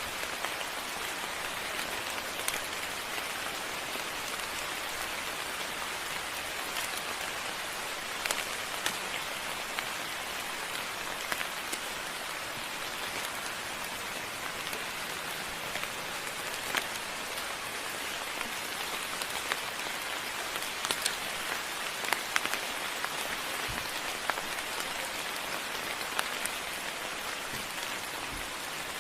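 Steady moderate rain hissing down, with scattered louder individual drops clicking and tapping.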